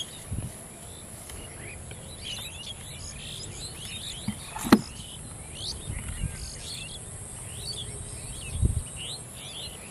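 Outdoor birds chirping with many short, quick calls over a steady high-pitched hiss. There is a single sharp click about halfway through and a few low thumps.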